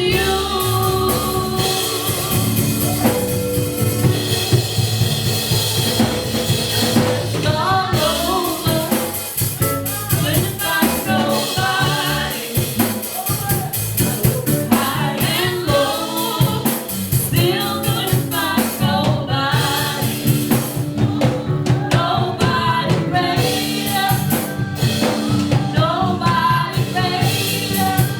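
Live contemporary gospel worship music: singing over a full band with drum kit and bass.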